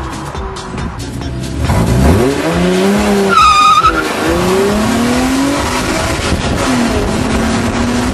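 Ford Probe 24v's V6 engine accelerating hard, its revs climbing, dropping and climbing again at each gear change, with a brief high squeal about three and a half seconds in.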